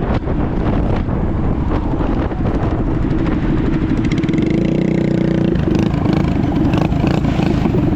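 Mini bike engines running, with a rough low rumble throughout. About four seconds in, a pitched engine note rises slightly, then cuts off sharply a second and a half later.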